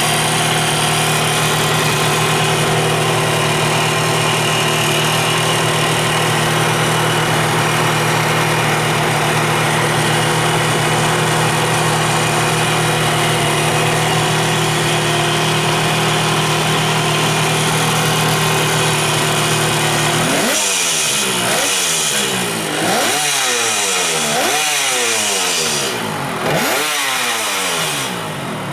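Kawasaki 350SS S2 two-stroke three-cylinder engine idling steadily, then blipped about four times in the last third, each rev rising quickly and falling back to idle; it revs up freely.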